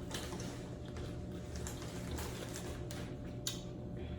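Chewing close to the microphone, with a few faint crunches from crunchy taco food, over a low steady room hum.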